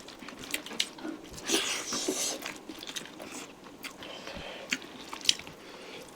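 Close-up eating of chicken curry: chewing and biting with scattered short clicks and wet smacks.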